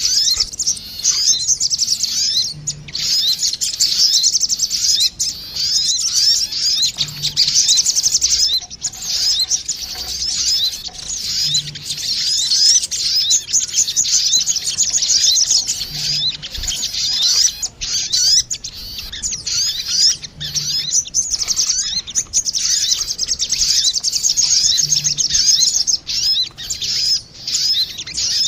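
Sogon birds, male and female, answering each other in a recorded lure call. Dense, rapid, high-pitched chirping trills go on without a break.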